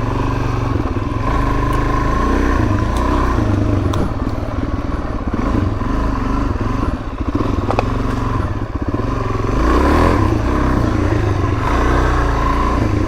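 Suzuki DR-Z400S single-cylinder four-stroke engine running while the bike is ridden on a dirt trail, the throttle opening and easing off several times, with a few clicks and clatter over it.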